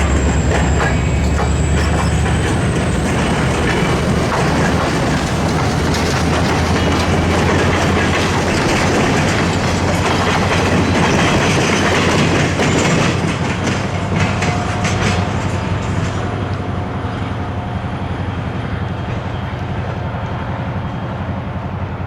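Passenger train hauled by an EMD GP30 diesel locomotive passing close by: a steady rumble of the diesel and the cars, with wheels clicking over the rail joints. The sound fades gradually from a little past halfway as the train moves off.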